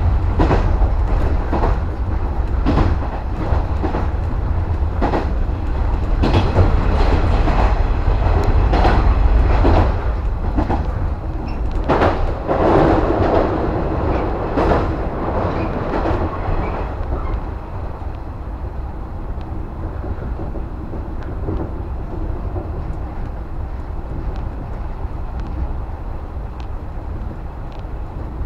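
JR West 115 series electric train running on the rails, heard inside the leading car: a steady low rumble with wheels clacking over rail joints. The middle is louder and rougher; about two-thirds of the way through the clacks stop, leaving a quieter steady rumble.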